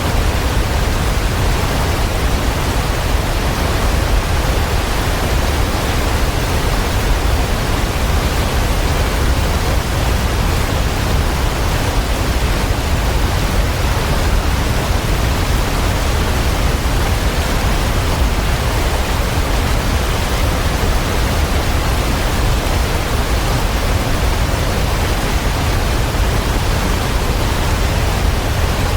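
Waterfall: a steady, unbroken rush of falling water, with a deep low rumble under it.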